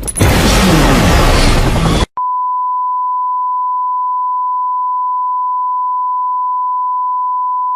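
A loud, noisy sound-effect burst for about two seconds, then a steady electronic beep: one pure tone held unchanged for about six seconds.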